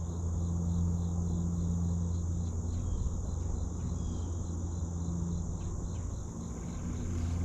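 Insects calling: a steady high buzz with a regular chirping pulse about four times a second, over a louder low steady hum.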